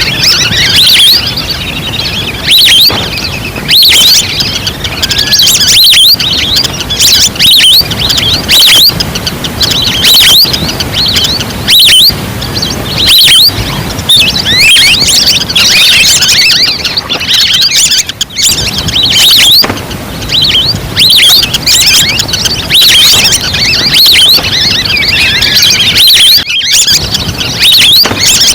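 A recorded flock of wild ducks calling, played back loud as a lure: many high chirping whistles overlapping in a dense, continuous jumble.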